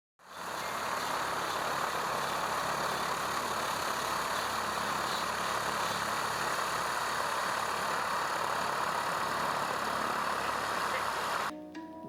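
Light aircraft engine running steadily, a constant noisy drone that fades in at the start and cuts off abruptly near the end.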